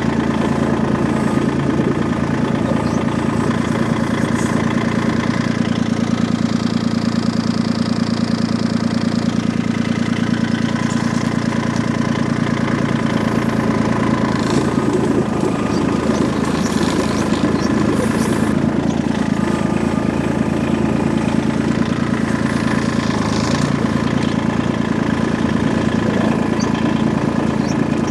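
An engine runs steadily at idle, with an even, unchanging note. A few faint knocks come in around the middle.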